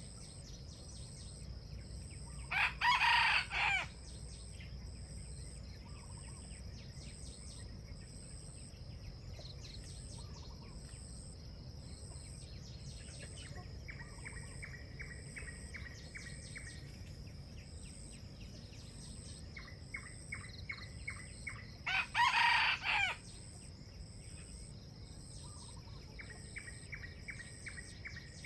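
Junglefowl rooster crowing twice, short clipped crows about 3 seconds and 22 seconds in, over a steady high insect drone and bursts of rapid trilling chirps.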